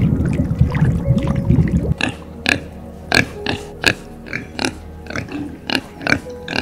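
Underwater rushing water noise for about two seconds, then pigs grunting: a quick run of short grunts, about three a second, from several young pigs.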